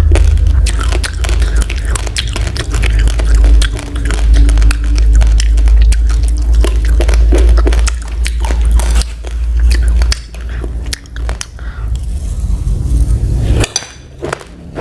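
Uncooked rice grains being crunched and chewed close to the microphone: a dense run of small sharp cracks over a steady low rumble, which cuts off suddenly near the end.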